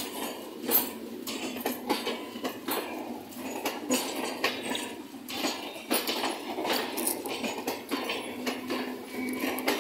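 MEMU electric multiple unit coaches rolling past, their wheels clattering on the rails with many irregular metallic clanks and knocks.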